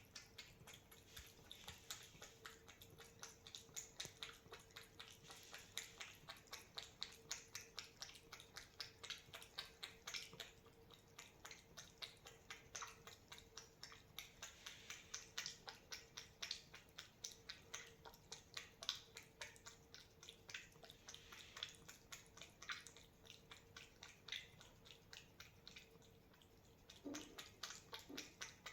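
A cat eating: quick, regular wet clicking mouth sounds, about three or four a second, with a faint steady hum underneath.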